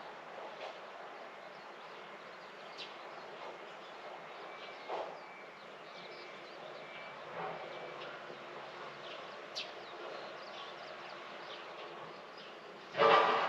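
Outdoor garden morning ambience: a steady background hiss with scattered short bird chirps, and one loud brief sound lasting about half a second near the end.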